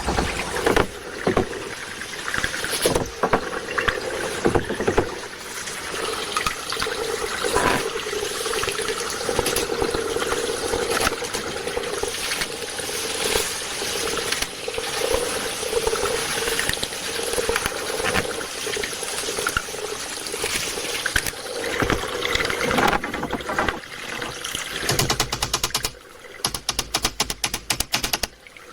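Water of a stream running steadily, with scattered sharp knocks in the first few seconds and a fast run of clicks near the end.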